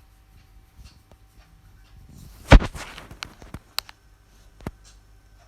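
A single loud thump about halfway through, followed by a few light, sharp clicks and taps.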